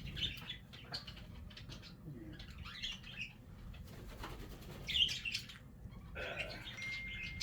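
Cockatiels giving short chirps, with wing flapping and light knocks and rustles of cage parts being handled.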